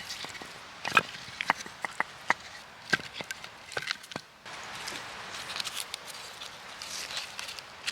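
Firewood being prepared for a campfire: sharp wooden knocks and cracks at irregular intervals.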